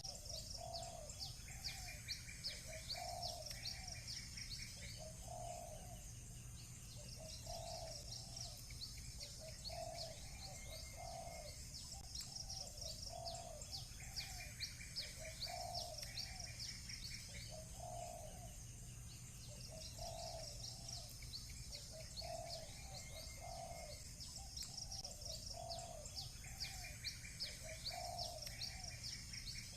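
Doves cooing in repeated phrases of short low coos, over rapid high chirping of small birds and short buzzy trills, all recurring every few seconds, with a faint steady low hum beneath.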